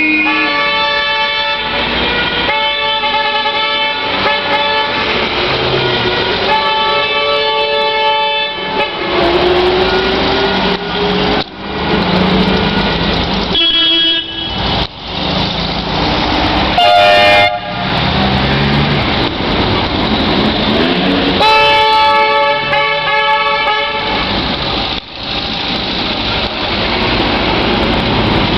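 Horns of vintage cars and motorcycles sounding in a series of held blasts over the running of their engines as the vehicles pull away.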